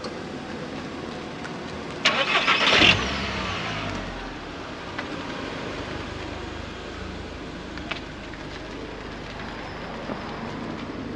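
A nearby vehicle engine starting: about a second of loud, rattling cranking, then the engine running with a low steady rumble.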